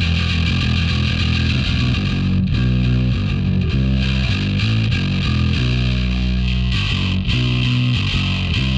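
Heavily distorted electric bass guitar playing a metal riff through the Aurora DSP Laney Digbeth bass amp-simulator plugin, the notes changing every half second or so.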